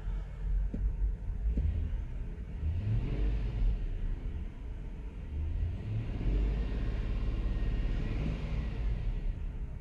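2005 Land Rover LR3's 4.4-litre V8 running rough with a misfire, revved up and back down twice, once about three seconds in and again from about six seconds in.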